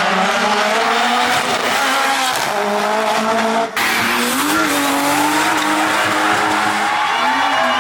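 Competition car engine running at high revs, its pitch climbing and dropping with throttle and gear changes, with tyres squealing. A brief break about four seconds in.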